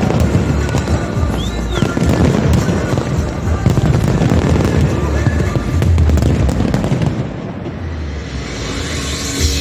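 A fireworks display going off in a dense barrage of bangs and crackling, with the display's soundtrack music playing underneath. The barrage eases a little about seven seconds in.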